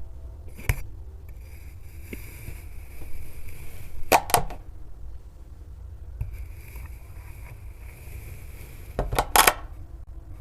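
A blade cutting through kinetic sand: three short crunching cuts, about half a second in, a double crunch around four seconds in, and a longer one near the end, over a steady low hum. The last cut falls in the reversed section and plays backwards.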